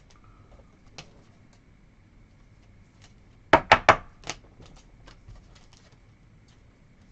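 Trading cards being handled and set down on a table: light scattered clicks, with a quick run of three or four sharp taps about halfway through.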